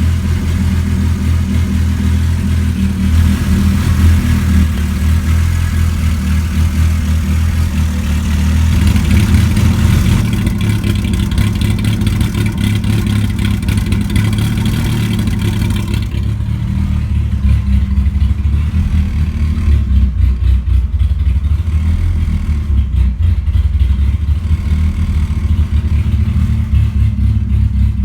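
Modified 2003 Mazda Protege5 four-cylinder race engine with Stage 3 cams, idling steadily through an open 4-2-1 header that is dumped with no exhaust pipe behind it. The idle tone shifts slightly a few times.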